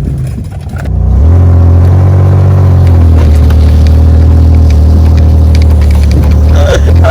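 Car engine revving hard and held at high, steady revs while towing a heavy load; it climbs about a second in and stays loud.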